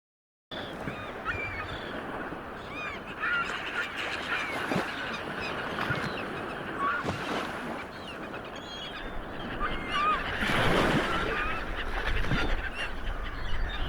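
A flock of birds calling: many short, overlapping calls over a steady outdoor noise that swells briefly about ten seconds in.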